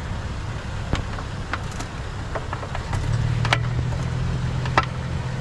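Vehicle engine idling with a steady low hum, which firms into a steadier drone about three seconds in. Over it come a few short knocks and clicks from scrap being handled and loaded into the back.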